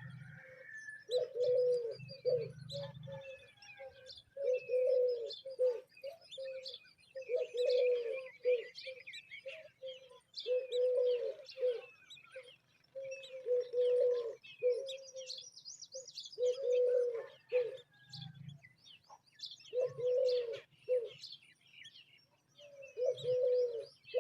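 A dove cooing over and over, in phrases of a few low coos repeated every two to three seconds, with higher bird chirps and twitters throughout.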